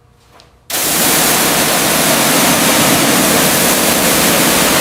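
A loud, steady rushing hiss that starts abruptly just under a second in and holds level.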